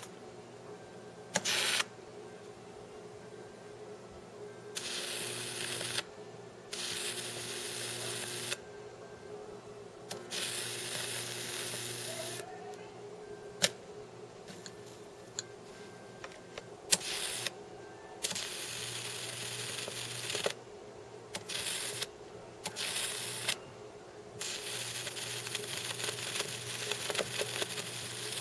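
High-voltage arc from a microwave oven transformer, its output rectified by 1N4007 diodes and smoothed by a capacitor. The arc comes in repeated noisy bursts of one to a few seconds each, the longest near the end, over a steady electrical hum. A couple of sharp snaps fall between the bursts.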